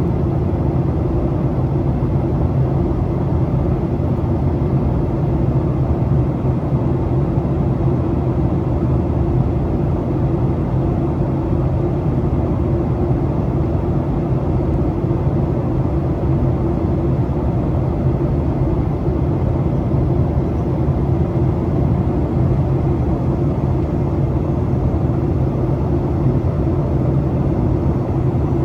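Steady cabin noise inside a Boeing 737 airliner on its approach: the low rumble of engines and rushing air with a steady low hum, unchanging throughout.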